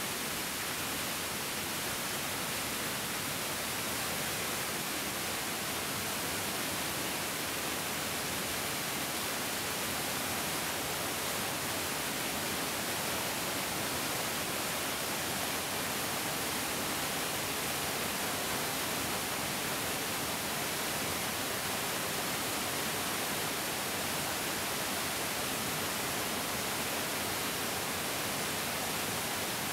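Bigger mountain stream rushing steadily, a constant even hiss of flowing water with no breaks or changes.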